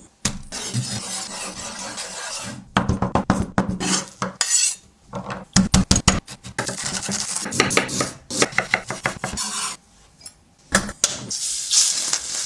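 Kitchen utensils and dishes clattering: a stretch of scraping and rubbing, then runs of quick sharp clinks and knocks against bowls or pans.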